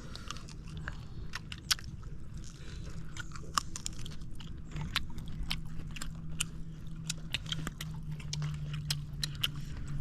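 Chewing and biting into cooked wild bird meat, with many small irregular crunches and clicks.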